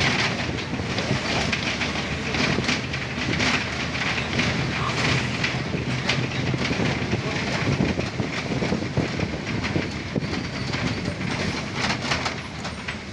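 Train running along the rails, a steady rumble with the wheels clattering over the rail joints.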